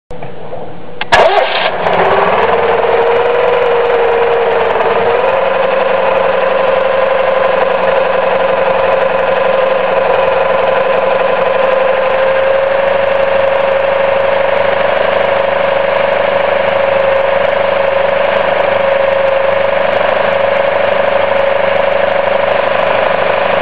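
A Citroën 2CV's air-cooled flat-twin engine starting with a sharp clack about a second in, then running steadily with a constant tone that steps up slightly a few seconds later.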